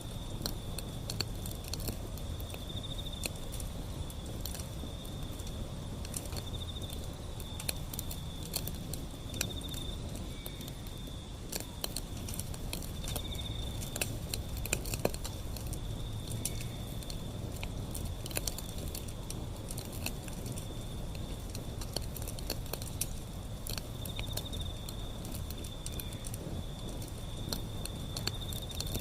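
Wood fire crackling, with sharp pops scattered irregularly over a low rumble of burning. A steady high-pitched trill runs throughout and swells every few seconds.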